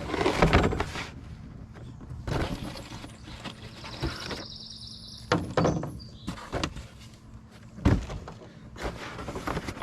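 Plastic packaging and box contents being handled during an unboxing: rustling and scattered knocks, with a brief high squeak about four seconds in.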